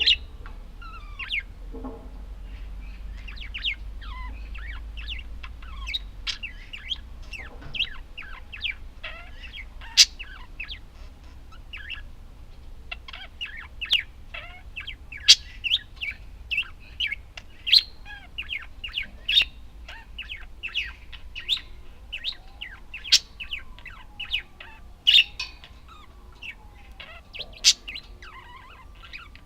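Budgerigars chattering and chirping: a constant stream of short, sharp chirps and warbles, busier in the second half.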